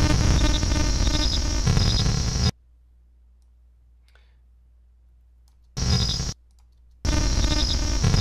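Loud synthesized sci-fi tractor-beam sound with steady tones over a pulsing texture, played back from an editing timeline. It cuts off abruptly about two and a half seconds in, then returns as two short bursts near the end, each stopping suddenly as playback is stopped and restarted.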